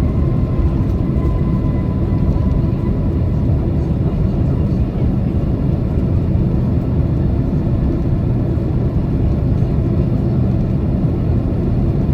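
Boeing 767 cabin noise from a window seat: the steady low rumble of the engines and airflow. A faint whine slides slightly down and fades over the first few seconds.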